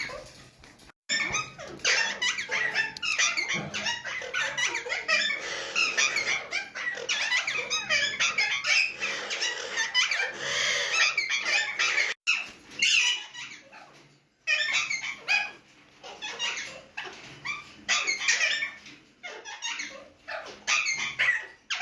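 Alexandrine parakeets squawking and squeaking, a dense chattering of many shrill calls that thins after about twelve seconds into separate short calls with gaps between them.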